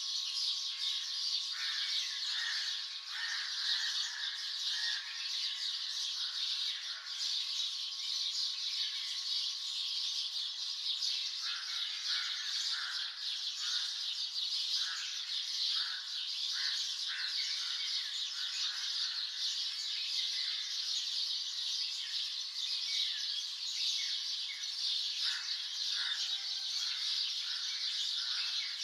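Dawn chorus of many songbirds: a dense, steady mass of high chirps and trills, with many short separate calls layered over it.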